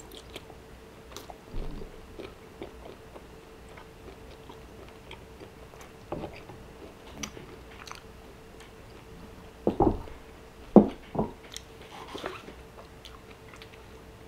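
Close-up mouth sounds of a man chewing a bite of grilled steak: soft wet chewing with small clicks, and a few louder mouth noises about ten seconds in. A faint steady hum runs underneath.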